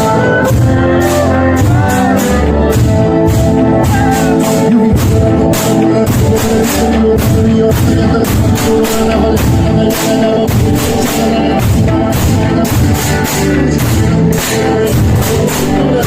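Pastellessa music: a fast, steady beat of struck barrels, vats and sickles under a held melody.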